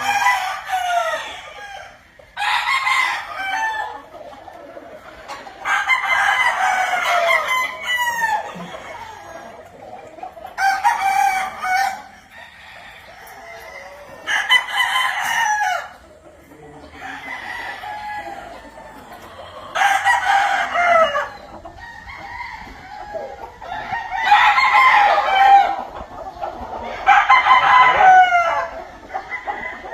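Game fowl stags and roosters crowing, one after another every few seconds, several birds taking turns and sometimes overlapping.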